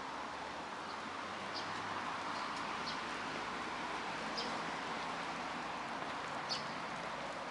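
Small birds giving about five short, high chirps over a steady rushing background of wind.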